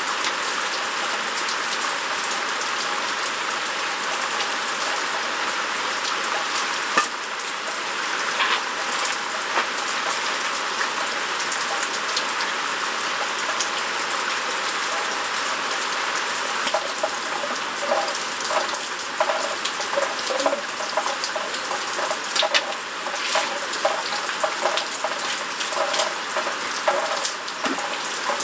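Steady rain falling, a constant hiss with scattered clicks and light knocks, more of them in the second half.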